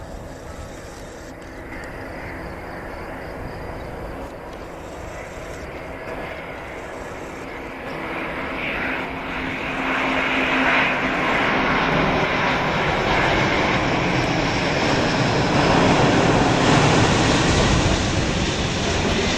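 Airbus A319 jet engines running at taxi power as the airliner rolls along the ground. The steady jet rush grows louder from about eight seconds in as it comes closer and is loudest near the end.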